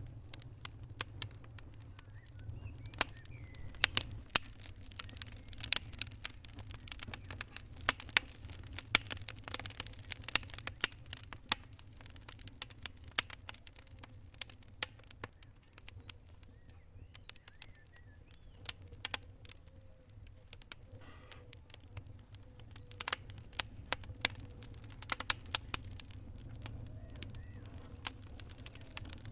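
Fire crackling: irregular sharp pops and snaps over a low steady rumble, thickest in the middle and again near the end.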